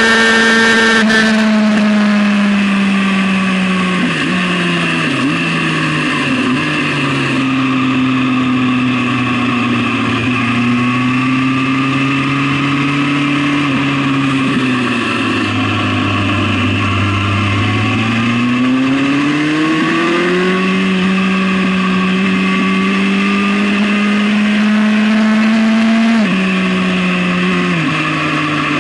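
Suzuki GSX-R sport bike's inline-four engine heard from onboard. The revs fall in steps as it slows from high speed, stay low for a few seconds around the middle, then rise as it accelerates again, with a sharp drop in pitch from an upshift near the end. Steady wind rush lies underneath.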